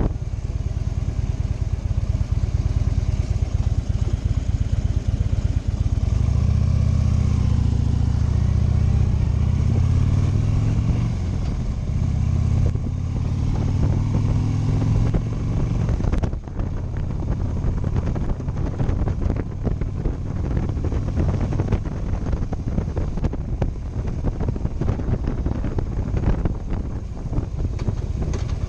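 Motorcycle engine running while riding. The engine note swells into a strong, steady drone from about a fifth of the way in. It drops off suddenly a little past halfway into a rougher, lower sound.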